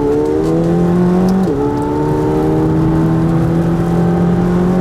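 McLaren 720S twin-turbo V8 accelerating hard under load, heard from inside the car, its pitch climbing steadily; about one and a half seconds in the pitch drops with an upshift and then climbs again.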